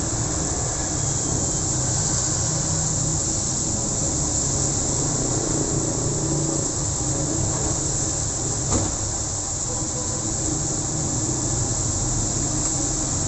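Heavy rain falling with a steady hiss, over the low rumble of road traffic passing on a busy street.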